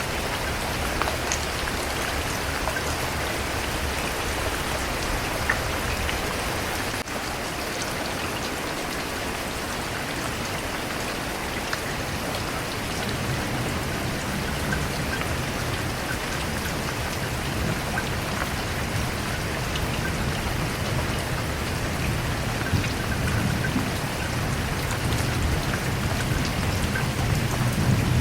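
Steady, heavy rain falling, an even hiss with scattered drop ticks. In the second half a low rumble of distant thunder builds, growing toward the end.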